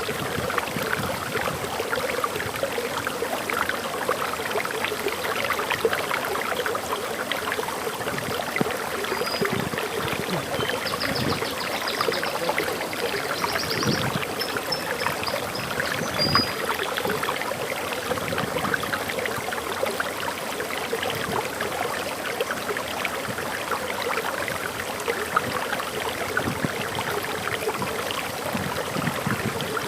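Waterfall water splashing and rushing steadily. A bird chirps faintly a few times around the middle.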